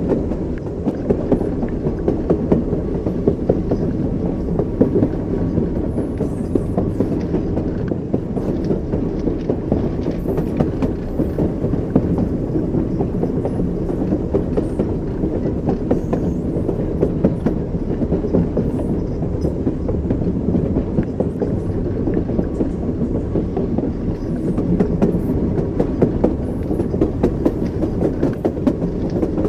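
Train wheels running on rails: a steady rumble with frequent sharp clicks.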